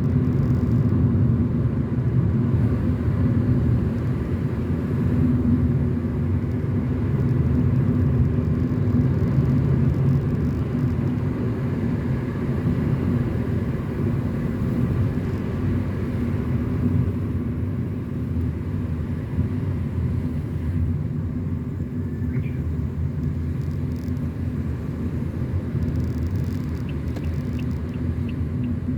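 Car driving along a road: a steady low rumble of engine and tyre noise. Near the end a faint regular ticking starts, about two ticks a second.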